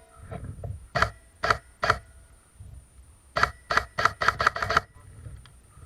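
Airsoft gun firing single sharp shots: three about half a second apart, then a quicker string of about seven shots around three and a half seconds in.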